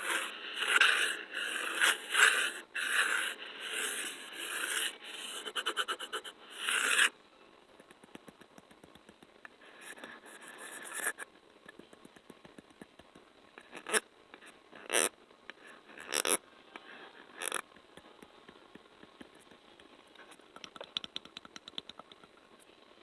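Close-miked ASMR sticky sounds: dense scraping and crackling, like a tacky surface being rubbed and pulled apart, for about seven seconds. Then it drops much quieter, with a few separate sharp taps and faint crackle.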